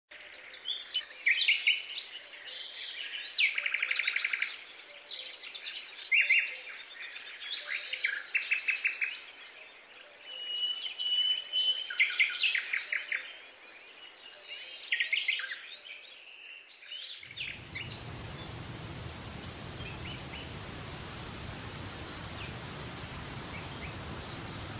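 Birds singing, a series of chirps and trills with short pauses between them. About two-thirds of the way through the birdsong cuts off suddenly and gives way to a steady hiss of outdoor background noise.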